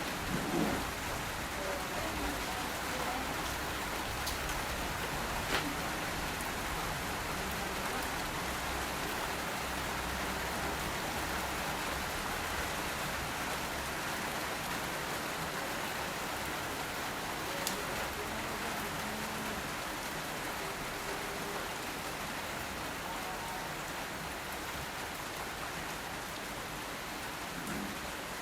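Steady rain falling, an even hiss of drops that holds its level throughout, with a couple of sharper single drop hits about five seconds in and again near eighteen seconds.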